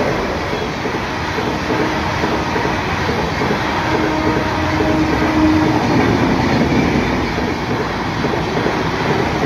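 Two electric trains hauled by WAP-7 and WAG-9 locomotives running past side by side at speed, making a steady, dense rumble and clatter of wheels on rails.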